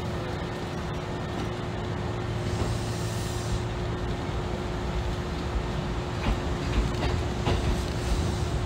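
Kintetsu Nagoya Line electric train heard from its front car as it pulls away from a station and gathers speed: steady running noise with a constant hum, and a few short wheel clicks over rail joints in the second half.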